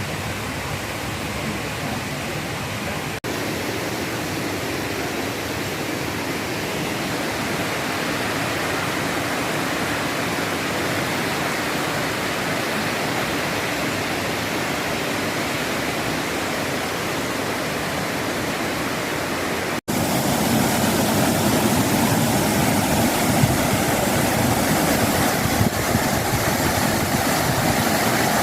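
Waterfall's rushing water: a steady, dense rush. It cuts out for a moment twice, and after the second cut, about two-thirds of the way in, it is louder and fuller.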